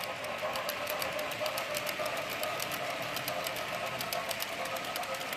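HO scale model train running: a steady small-motor whine with rapid clicking.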